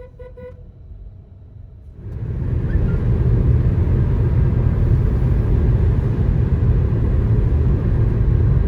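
A short pitched tone at the start. About two seconds in, a loud, steady low rumble of a moving car sets in suddenly: road and wind noise.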